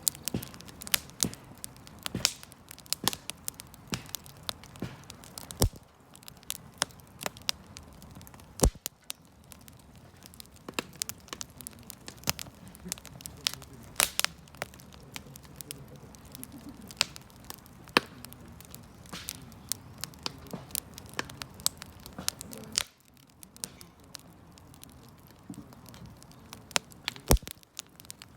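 Wood campfire burning, crackling with irregular sharp pops and snaps over a low hiss of flames.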